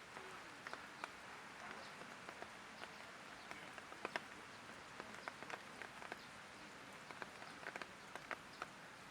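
Light rain falling, a steady soft hiss with individual drops ticking irregularly on hard surfaces.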